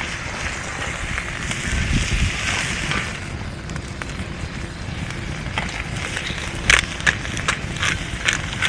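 Wood campfire burning with a steady rush, then sharp crackles and pops, several in the last few seconds.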